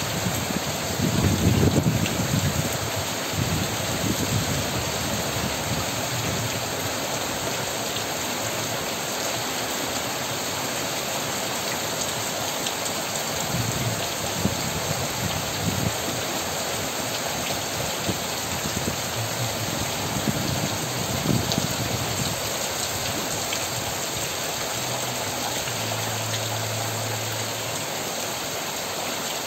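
Heavy rain falling steadily on trees and a yard, an even hiss, with a brief low rumble about two seconds in.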